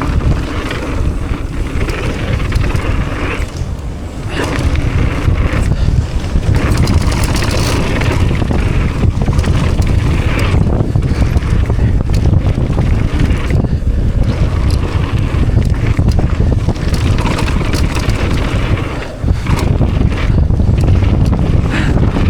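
Wind buffeting an action camera's microphone during a fast mountain-bike descent: a dense low rumble, mixed with the tyres' roar and the clatter of the bike over rough trail.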